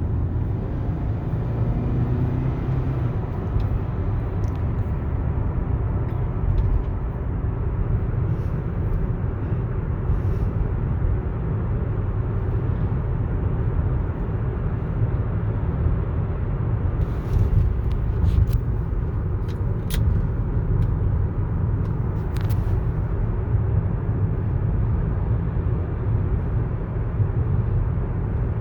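Steady road and drivetrain rumble inside the cabin of a 2015 Toyota Camry SE while driving, with a few faint clicks past the middle.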